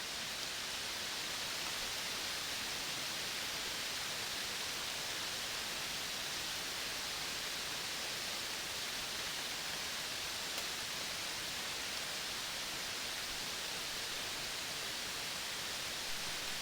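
Steady, even hiss of outdoor nature ambience, with no distinct calls or events standing out.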